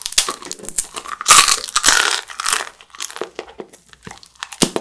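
Close-miked eating sounds: teeth biting and tearing at a chewy jjondeugi (grilled-style starch snack stick), then chewing it, in a run of irregular bursts that are loudest about a second and a half in.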